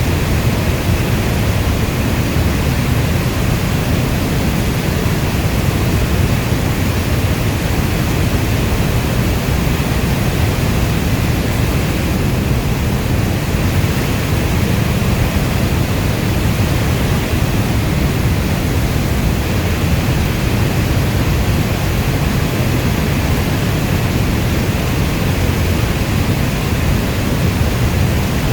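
Heavy rain falling steadily: a dense, even hiss with a deep low rumble underneath. No single drops, thunder or other events stand out.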